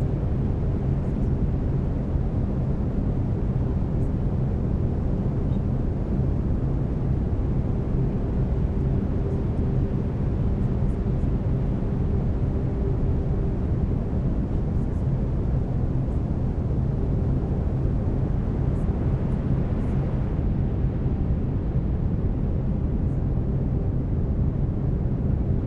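Brown noise: a steady, deep, rumbling hiss at an unchanging level, with faint steady low hum tones underneath.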